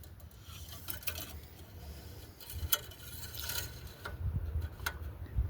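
Scattered light clicks and taps from handling, with brief rustles over a low background rumble.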